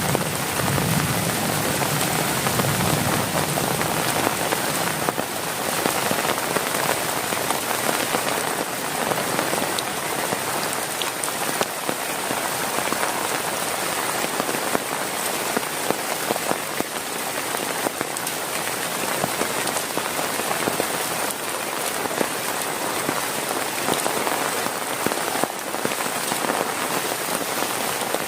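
Heavy rain falling steadily on a plastic tarp and tent, a dense, even hiss full of fine drop impacts.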